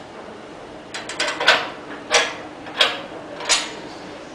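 Metal clicks and clanks of a cast-iron stove's fittings being handled: a quick cluster of light clicks about a second in, then three single sharp clanks spaced a little over half a second apart.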